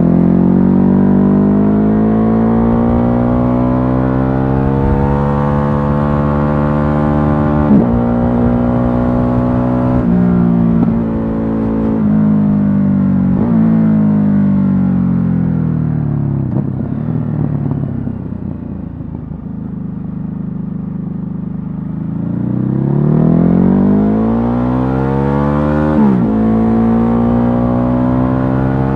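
Ducati Hypermotard 950's 937 cc L-twin engine under way. It accelerates with rising pitch and upshifts about three times in the first half, then rolls off, its pitch falling for several seconds. It then accelerates again and shifts once more near the end.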